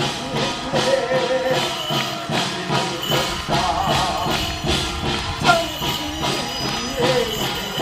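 Korean ritual music for a blade-riding shaman rite: a wavering, bending melody line over steady, evenly spaced drum strokes, with jingling bells throughout.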